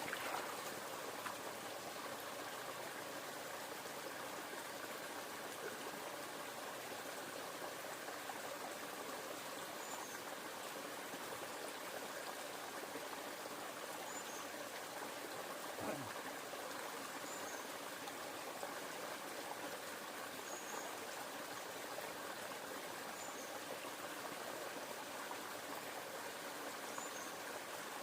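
Steady rush of flowing river water, with a faint high chirp every three or four seconds and a single soft knock about halfway through.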